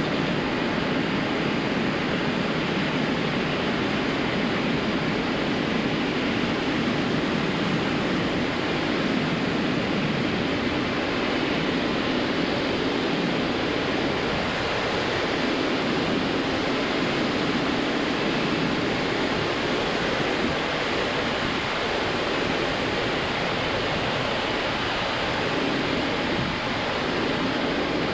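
Ocean surf washing continuously onto a sandy beach: a steady, even rush with no single wave crash standing out.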